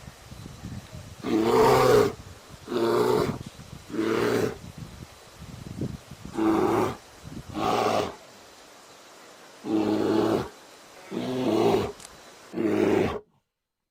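Bear roaring in a series of about eight short, pitched calls, each under a second long, spaced one to two seconds apart.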